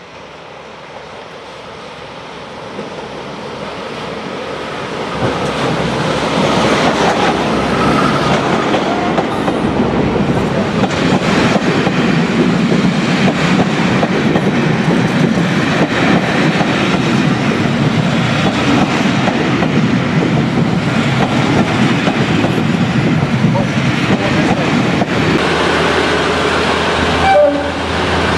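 A train approaching and passing close by: its noise builds over the first five or six seconds, then stays loud and steady for the rest.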